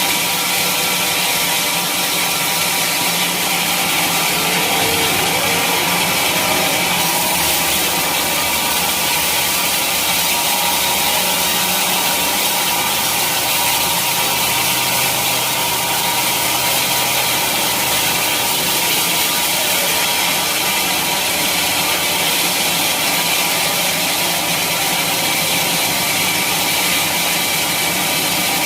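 Sawmill saw cutting lengthwise through a teak log: a steady, continuous sawing noise.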